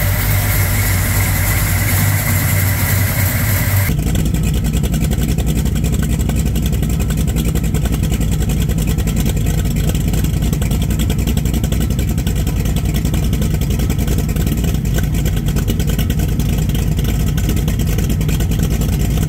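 Chevrolet V8 on an engine dyno running steadily at constant speed. About four seconds in, the sound changes abruptly to a deeper, duller running heard through the louvered metal wall of the dyno room.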